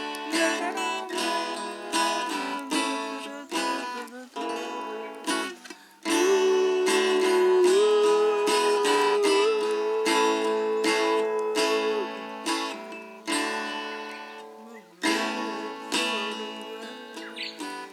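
Acoustic guitar being strummed in a steady rhythm. About six seconds in, a long held melody note enters, stepping up twice in pitch, then falls away near the twelve-second mark.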